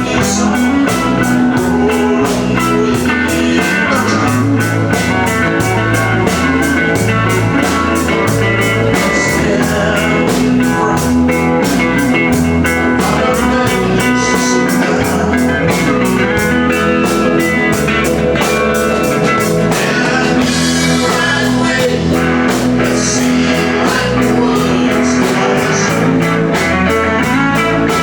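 Live country-rock band playing, with guitars over a drum kit keeping a steady beat.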